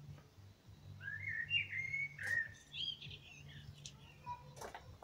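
A bird singing a short warbling phrase of quick rising and falling notes, with a couple of sharp clicks of handling near the end.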